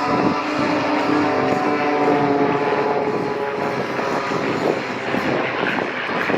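Aircraft engines droning as a formation of aerobatic airplanes flies past. Steady engine tones are heard for the first couple of seconds, then give way to a broader rushing noise.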